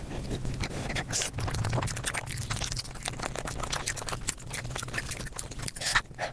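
Mukbang eating sounds sped up about five times: a fast, dense run of chewing and mouth clicks, with one sharp loud click near the end.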